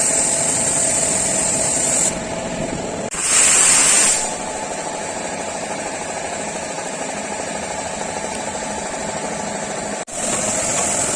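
Paint spray gun hissing in a burst of about a second, over a steady machine hum with a high hiss.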